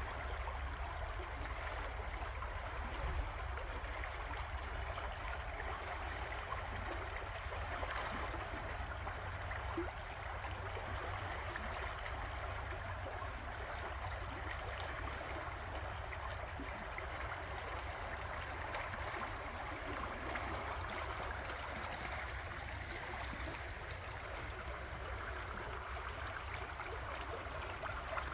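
River water flowing, a steady rush of running water with a low rumble underneath.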